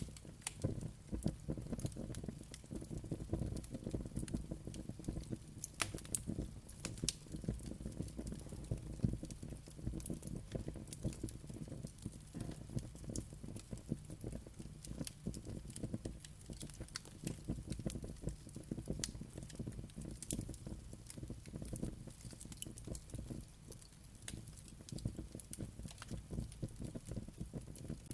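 Wood fire crackling, a dense run of small pops and snaps over a steady low rumble of flames.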